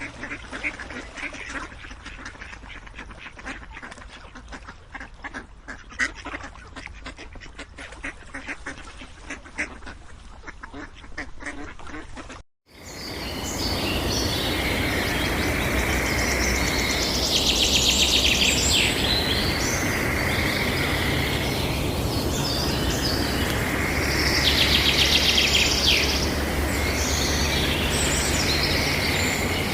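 Ducks quacking, then, after an abrupt cut about twelve seconds in, birds calling with repeated rapid high trills over a steady background noise.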